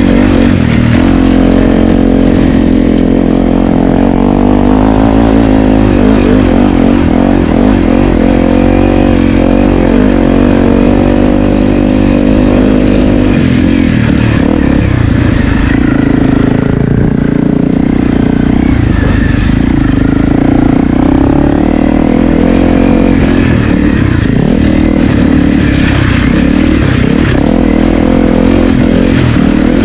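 Honda CRF250L's single-cylinder four-stroke engine running under load as the bike is ridden, its pitch repeatedly rising and falling as the throttle opens and closes.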